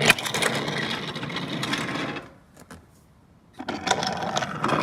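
Motorised toy train running on a toy railway track: a small electric motor whirring, with wheels rattling on the rails. It breaks off about two seconds in, with only a few clicks, and starts again near the end.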